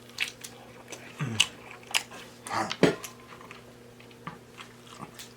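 Close-miked chewing and wet lip smacking while eating seafood boil, an irregular run of short smacks and clicks, with a couple of brief voice sounds in the first few seconds.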